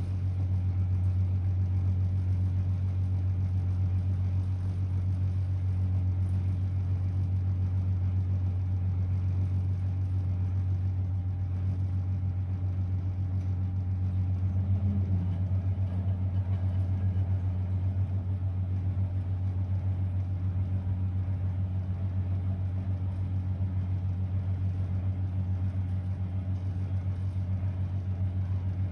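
Blomberg WA391 washing machine running with a steady low hum that does not change.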